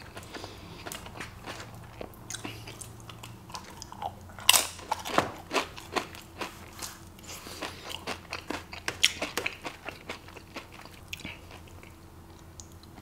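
A person crunching and chewing a tortilla chip dipped in guacamole, close to the microphone: irregular crisp crunches with wet mouth sounds, the loudest crunches a little over four and five seconds in.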